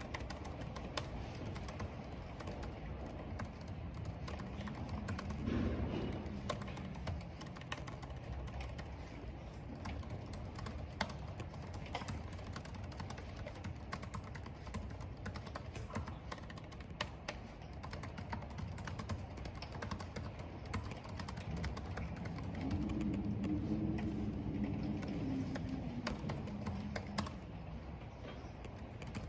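Typing on a computer keyboard: a steady run of keystrokes over a constant low rumble of wind and rain. Twice, about five seconds in and again from about twenty-two to twenty-seven seconds, the wind moans in a low tone that rises and falls.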